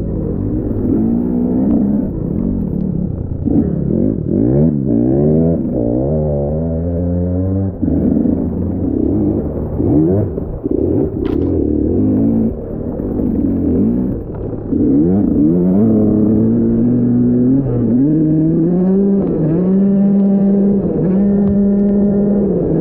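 Dirt bike engines revving, the pitch rising and falling over and over with the throttle; over the last few seconds the engine note holds steadier.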